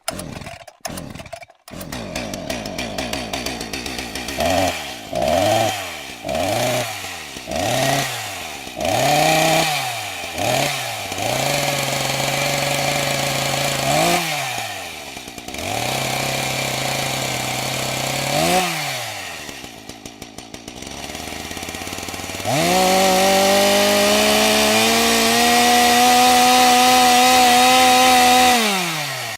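Small petrol engine, chainsaw-like. A few sharp clicks open it, then the engine catches and is revved in short blips that rise and fall about once a second, with spells of steady running between them. It drops back to a low idle near the end, then runs at a steady high speed and winds down right at the close.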